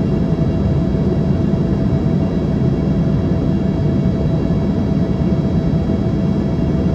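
Cabin noise of an Embraer ERJ-145 in flight: a steady low rumble from its rear-mounted Rolls-Royce AE 3007 turbofans and airflow, with a constant engine whine of several steady tones above it.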